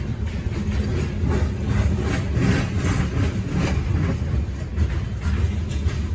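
Diesel locomotive engine running with a heavy, steady rumble, with a regular clicking or clattering on top about twice a second.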